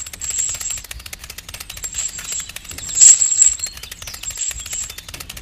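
Rapid, steady mechanical clicking, like a fast rattle, with a thin high whine that swells twice.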